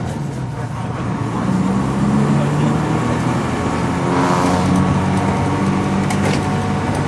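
Bus interior while driving: the engine drones steadily, its pitch shifting a little, with a couple of sharp clicks or rattles about six seconds in.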